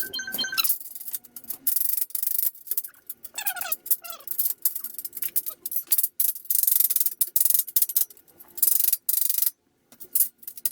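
Steel shelf parts scraping and rubbing against each other in repeated irregular bursts as a long metal beam is worked into place on the frame, with a few short squeaks about three and a half seconds in.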